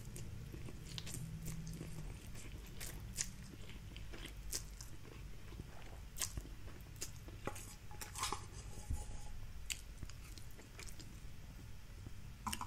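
Close-up mouth sounds of someone chewing Indomie Mi Goreng fried instant noodles: irregular wet clicks and small crunches from the little crunchy bits in the noodles, over a faint low hum.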